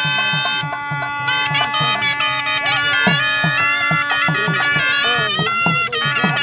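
A sannayi, a shehnai-type double-reed pipe, playing a held, wavering melody over a steady drum beat of a few strokes a second: the traditional Gangireddu bull-dance music.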